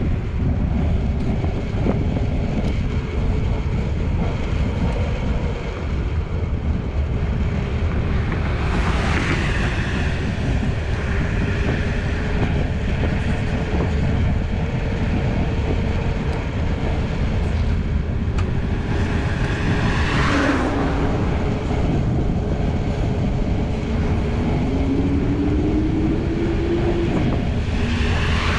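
Steady rumble of wind on the microphone and road noise from a moving bicycle, with motor vehicles passing by three times: about a third of the way in, two-thirds of the way in, and at the end.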